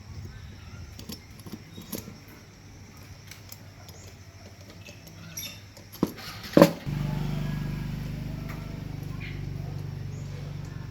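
Light clicks and two sharp knocks, then about seven seconds in a small motor starts suddenly and runs steadily with a low hum.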